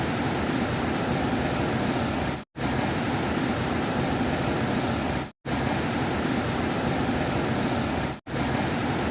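Heavy rain pouring down with strong wind, a steady dense rushing noise. It is cut by three brief moments of complete silence about three seconds apart.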